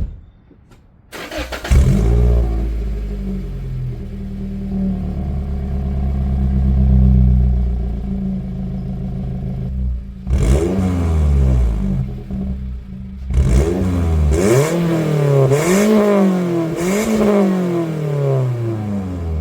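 Scion iM's 1.8-litre four-cylinder engine breathing through a DNA Motoring aftermarket catback exhaust: it starts about two seconds in and idles steadily, then is revved in stationary blips, one about halfway through and several quick ones in a row near the end.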